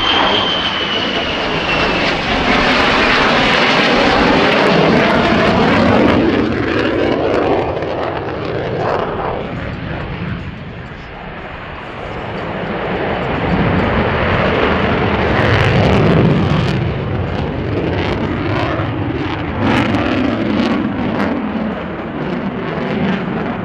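F-35A Lightning II's single Pratt & Whitney F135 afterburning turbofan: loud jet noise from the fighter flying its display. A high whine fades in the first couple of seconds, the noise eases about halfway through, then builds again.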